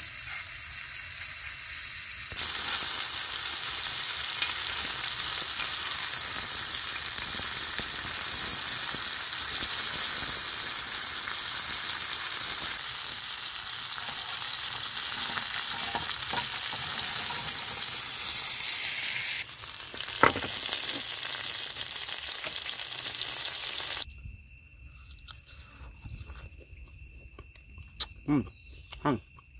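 Tarantulas frying in oil in a cast-iron pan over a wood fire: a steady, high sizzling hiss. About 24 seconds in, the sizzling cuts off abruptly, leaving a much quieter stretch with a few faint clicks.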